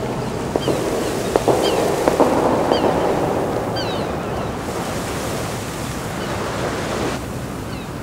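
Sea waves washing against the shore with wind, and a few short, falling bird calls in the first half.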